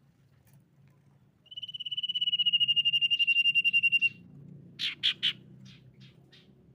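Common iora singing: one long, rapidly pulsing whistle that falls slightly in pitch over about two and a half seconds, followed by three sharp short notes and a few fainter ones.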